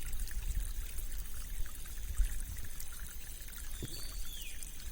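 Rain-swollen stream flowing and trickling over rocks, a steady rush of water. A bird gives a brief high call near the end.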